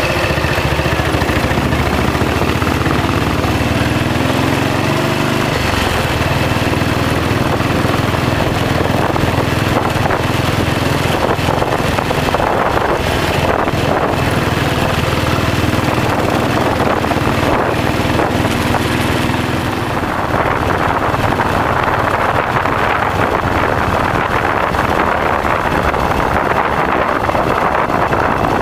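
Royal Enfield single-cylinder motorcycle engine running steadily under way, its note stepping once about five seconds in, with wind buffeting the microphone, heavier in the last third.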